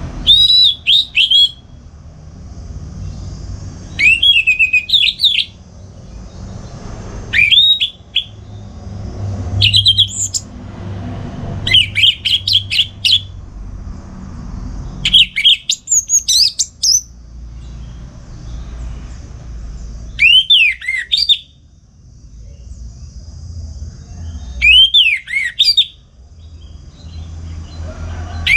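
Orange-headed thrush singing loudly and freely, in full song: eight short phrases of quick, rising and falling whistled notes, one every three to four seconds. A low steady rumble runs underneath between the phrases.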